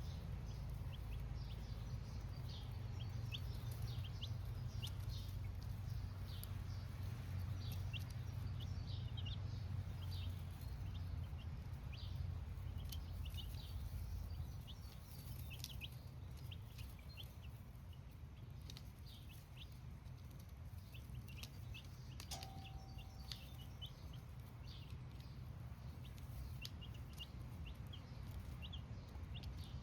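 Flock of baby chicks cheeping: many short, high peeps overlapping without a break. Under them a low hum fades away about halfway through.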